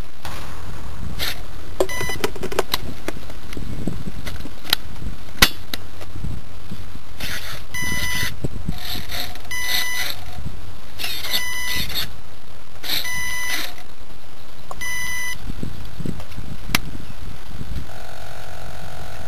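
Short bursts of electronic beeping, about six in all, most of them one to two seconds apart in the middle of the stretch, over a steady low noise with a few sharp clicks.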